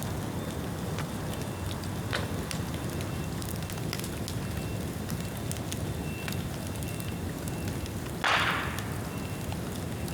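A bonfire of wet bamboo burning, with a steady low rumble and scattered sharp crackles. A little after eight seconds in comes a louder hissing burst of about half a second.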